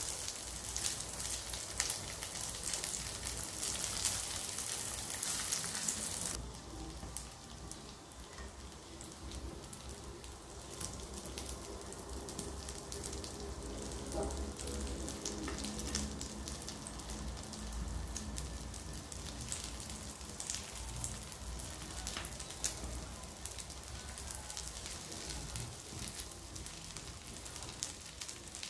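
Food frying in hot oil in a pan: a dense sizzle that drops abruptly, about six seconds in, to a quieter, sparser crackle.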